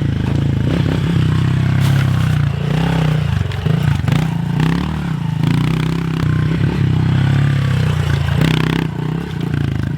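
A 110cc four-stroke single-cylinder pit bike engine running as it is ridden, the engine speed rising and falling a few times.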